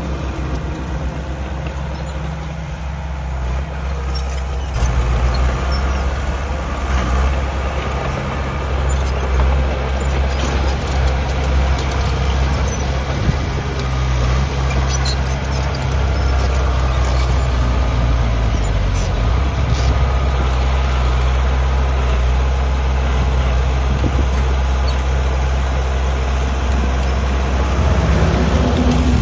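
Diesel engine of heavy earthmoving machinery running steadily, louder from about five seconds in as it comes under load, with faint metallic clanks and squeaks over it.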